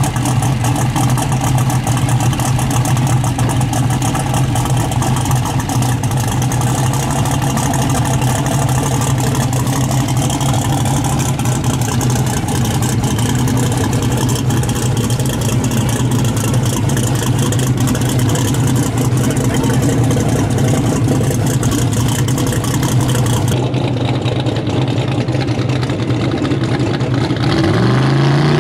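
Twin-turbo Mustang drag car's engine idling with a steady, loud low rumble as the car rolls. After a cut, an engine revs up, rising in pitch near the end.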